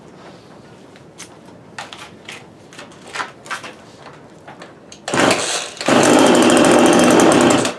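Light knocks of handling, then about five seconds in a JCB two-stroke chainsaw engine fires on fuel dripped onto its air filter, runs loudly with a rapid even beat for about two seconds and cuts out abruptly. Its firing shows the ignition is good and the fault lies in the fuel supply.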